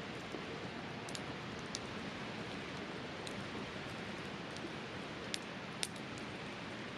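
Wood campfire burning, with a handful of sharp crackles and pops, the two loudest close together near the end, over a steady rush of river water.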